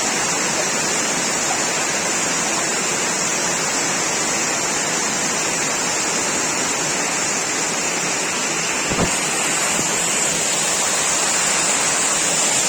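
Heavy rain falling steadily, a dense even hiss, with a single short knock about nine seconds in.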